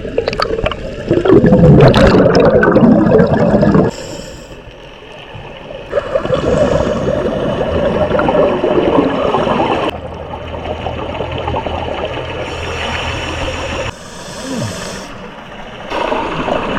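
Underwater camera audio: the rushing and gurgling of a scuba diver's exhaled regulator bubbles, in several short stretches that change abruptly every few seconds.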